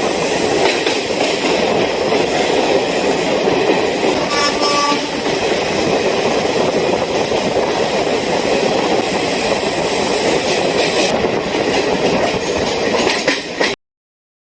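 Passenger train running along the track: a steady, loud rumble and rattle of the moving coaches, with a brief high tone about four seconds in. The sound cuts off abruptly just before the end.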